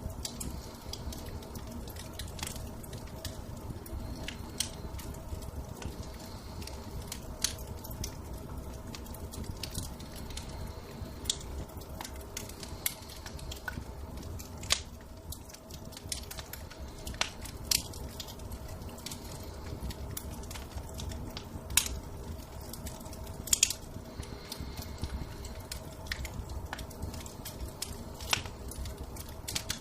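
Wood fire crackling in a fireplace, with irregular sharp pops over a low steady rumble; a few pops in the second half are louder.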